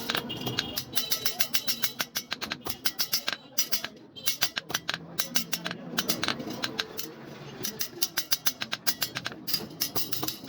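A rapid, uneven series of sharp taps or clicks, several a second, thinning out briefly about four seconds in and again near seven seconds.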